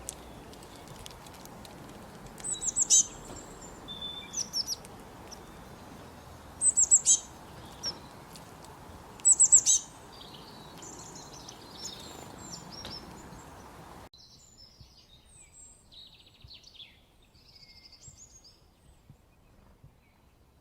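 Small songbird chirping in short bursts of three or four quick high notes, four bursts within about ten seconds, over a steady outdoor hiss. About fourteen seconds in the background hiss drops away abruptly and fainter, scattered chirps continue.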